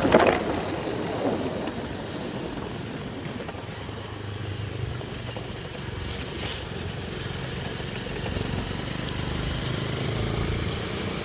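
Motorcycle engine running steadily at low speed, with a brief louder sound right at the start.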